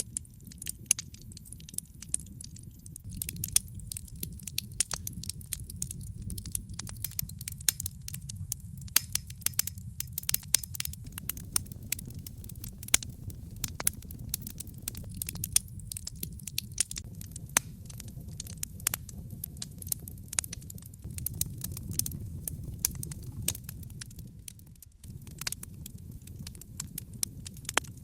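Wood fire burning in a fireplace: logs crackling and popping with many sharp, irregular snaps over a steady low rumble of the flames.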